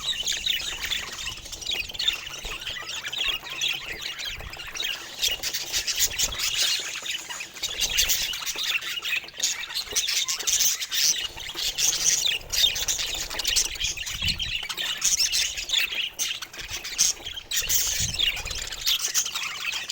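Several budgies chattering, a continuous stream of short high chirps mixed with squawks.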